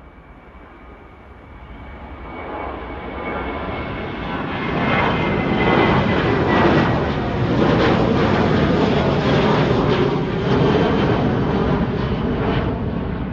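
A departing airliner's engines pass close by. Its roar builds steadily over the first several seconds and stays loud, and a high whine slides down in pitch as the aircraft goes past.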